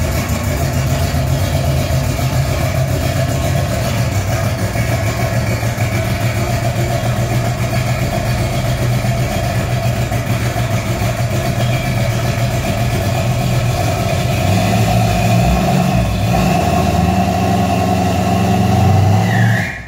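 A 1969 car's engine idling steadily, running a little louder and higher near the end.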